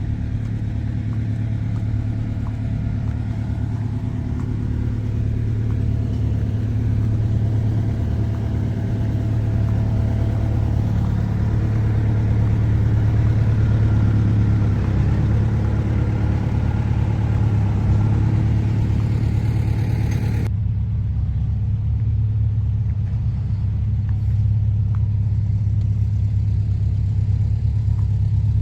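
Diesel engine of a rice combine harvester running steadily with a low hum. About twenty seconds in, the higher hiss cuts off suddenly while the hum carries on.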